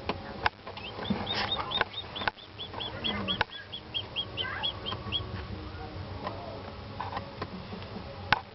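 Newly hatched chicken chick peeping: a quick run of short, high chirps, about five a second, lasting roughly four seconds, with scattered light taps and knocks.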